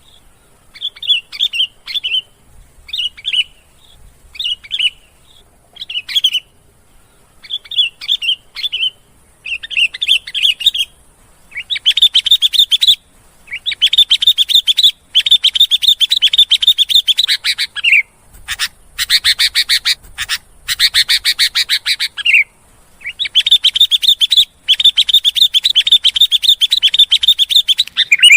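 Sooty-headed bulbul (kutilang) singing: short phrases about once a second, then from about halfway long, fast chattering runs of several seconds each, some ending in a falling note.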